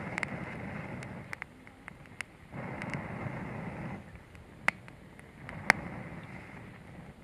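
Gusts of rough noise that start and stop abruptly, with a handful of sharp clicks or cracks, the loudest two about four and a half and five and a half seconds in.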